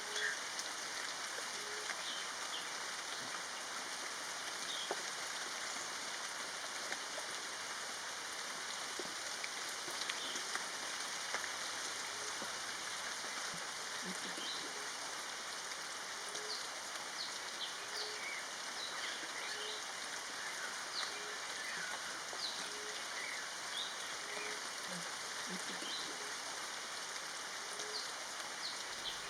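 Green-eared barbet calling: a short low note repeated at an even pace, about once every second and a half, over a steady hiss, with faint high chirps from other birds.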